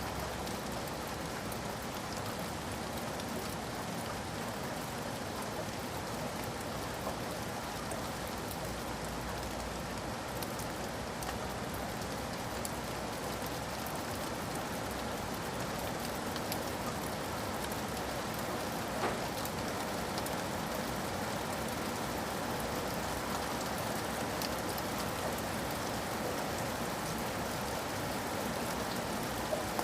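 Steady rain falling and pattering on a surface, an even hiss with scattered drop ticks and one slightly louder click about nineteen seconds in.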